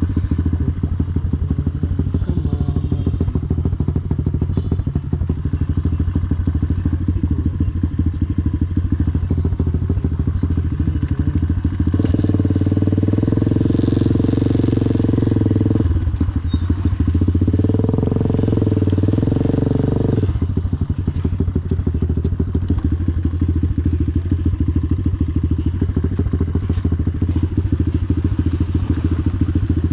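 Motorcycle engine running steadily under way, its pulsing note strongest low down; in the middle it grows louder and fuller twice for a few seconds, as if under more throttle, then settles back.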